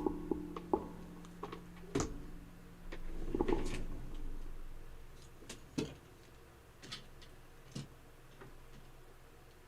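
Irregular clicks and light knocks from equipment being handled, with a louder clatter about three and a half seconds in. The clicks then thin out to scattered single ticks.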